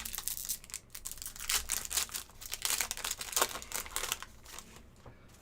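Trading cards being handled and flipped through a pack: a run of quick, crisp clicks and rustles of card stock sliding against card and wrapper, dying away near the end.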